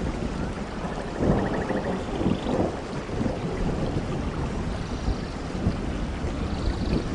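Steady rainfall, a dense patter of drops with a deep rumbling undertone.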